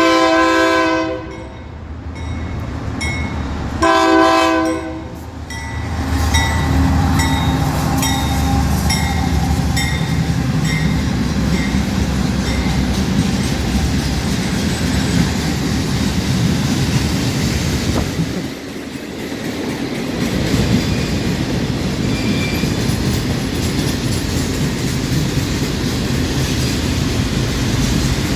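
Union Pacific GE AC44/60CW diesel locomotive sounding two horn blasts, one right at the start and one about four seconds in. It then passes with a steady low engine rumble and regular clicking of wheels over the rails as the train rolls by.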